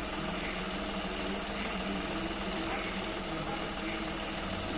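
A diesel engine running steadily at idle.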